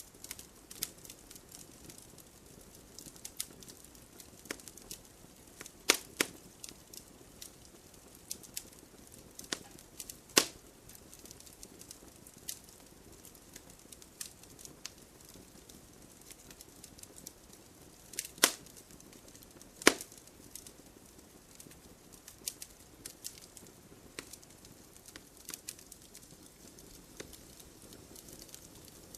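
Wood fire crackling, with scattered sharp pops over a low hiss of flame; a few louder snaps stand out about 6, 10, 18 and 20 seconds in.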